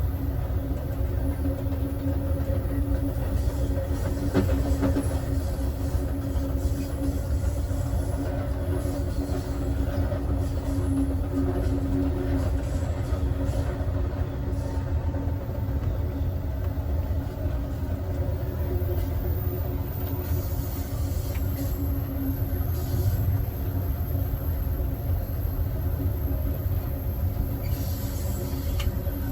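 Steady running noise of a passenger train heard from its last car: a constant low rumble of wheels on rail with a steady hum and occasional faint clicks.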